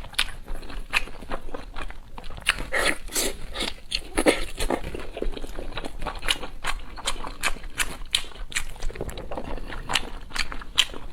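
Close-miked eating: a person chewing and biting food, with rapid, irregular wet smacking and clicking mouth sounds, busiest a few seconds in.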